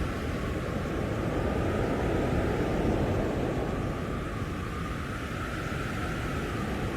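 Strong blizzard wind blowing steadily, a dense low roar that swells slightly about two to three seconds in.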